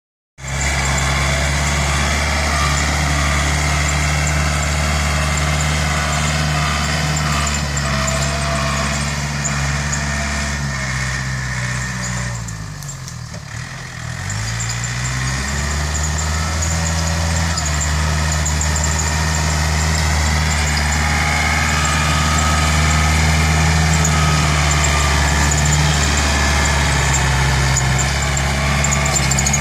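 Yanmar EF494T tractor's diesel engine running steadily; about eleven seconds in the revs fall away and the engine slows and quietens, then picks back up within a few seconds and runs steadily again.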